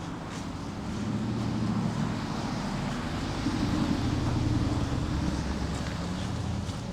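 A motor vehicle's engine passing close by on the street, a low rumble that grows louder over the first few seconds, peaks past the middle and then eases off.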